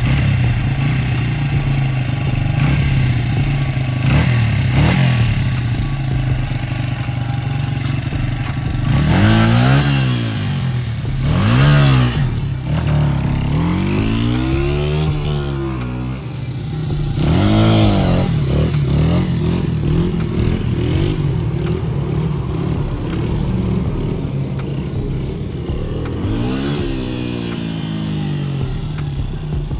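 1999 Honda 80R dirt bike engine running on its first tank of fresh gas with a newly installed carburetor after sitting for years, idling steadily and then revved up and back down several times by blips of the throttle, about nine seconds in and again near the end.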